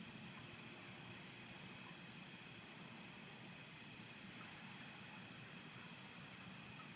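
Near silence: faint night ambience with a steady high insect drone and a short, high chirp about once a second. No thunder is heard.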